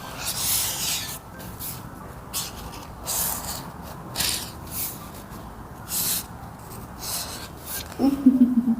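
A pen drawing on paper: a series of separate scratching strokes, some short and some drawn out to about half a second.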